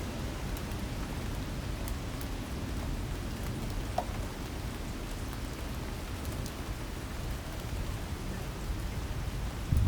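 Heavy rain pouring down steadily in a storm, with a few sharper drop ticks and a brief low thump near the end.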